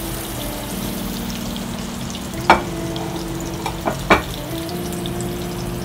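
Minced-meat gola kababs sizzling as they shallow-fry in a little ghee in a nonstick pan over a low flame. Three sharp knocks come about halfway through, the first the loudest and the other two close together just after.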